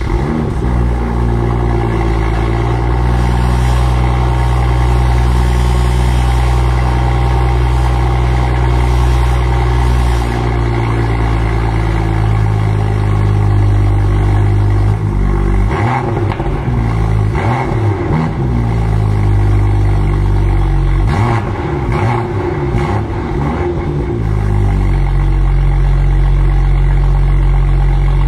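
An engine catches and runs steadily, is revved up and down in short blips about halfway through and again a few seconds later, then settles back to a steady run.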